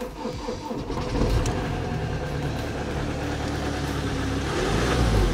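Mk7 Ford Transit van engine cranking and catching about a second in, then running steadily; the owner has been told the turbo has gone.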